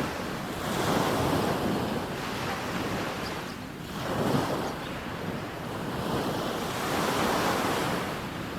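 Sea waves breaking and washing up a sandy beach, surging and ebbing about every three seconds.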